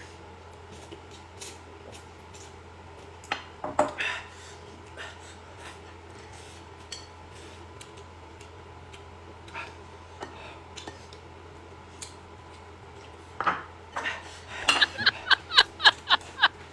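Tableware clinking during a meal: scattered taps and scrapes of utensils on dishes, then near the end a quick run of about eight bright, ringing clinks of a utensil striking a bowl, over a faint steady low hum.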